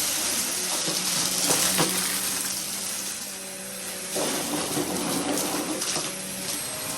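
Vacuum cleaner running with a steady motor hum and airflow hiss, with several sharp clicks and rattles through it.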